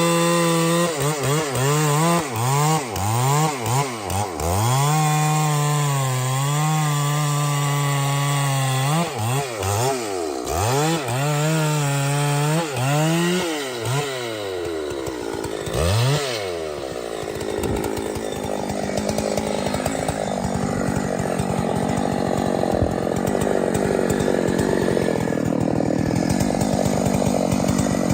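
Two-stroke chainsaw running: the engine note repeatedly drops and climbs back to a steady high pitch, then from about 17 seconds in it settles into a rougher, lower sound.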